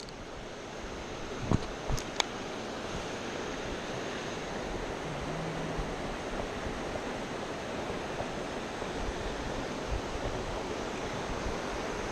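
Steady rush of flowing river water, with a few sharp clicks or knocks about a second and a half to two seconds in.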